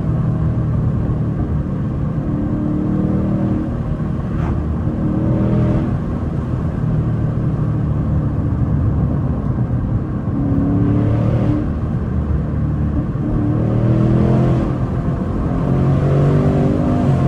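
2024 Ford Mustang GT's 5.0-litre V8 under way, its note rising as it pulls through a gear and dropping at each shift, several times over. The airbox carbon traps are removed and high-flow air filters fitted.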